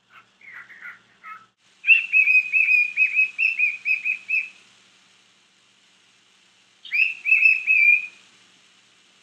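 Young cockatiel whistling: a few soft chirps, then a quick run of repeated high whistled notes lasting about two and a half seconds, and a shorter run about two seconds later.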